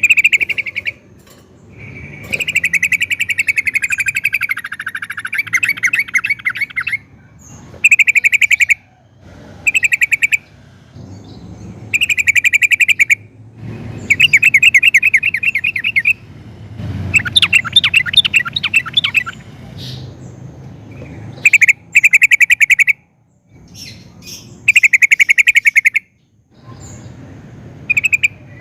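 Yellow-vented bulbul (trucukan) singing: loud phrases of rapid chattering notes, each about a second long, repeated with short pauses.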